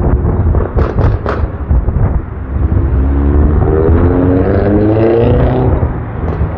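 Strong wind buffeting the microphone with a heavy low rumble. A few sharp clicks come about a second in, and in the second half a motor vehicle's engine hum rises slowly in pitch as it passes.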